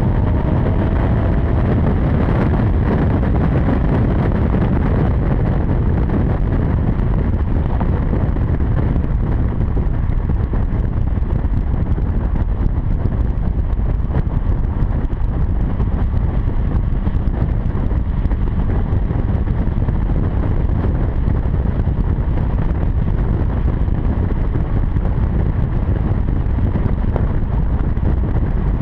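Exhaust of a 2007 Acura TL's V6 through a quad-tip catback with Magnaflow mufflers, heard at a steady cruise, mixed with heavy wind rushing over the microphone.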